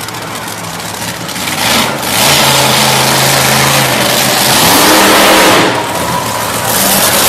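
Monster truck engine revving hard and loud. It is quieter for the first two seconds, then surges, eases briefly about six seconds in and climbs again.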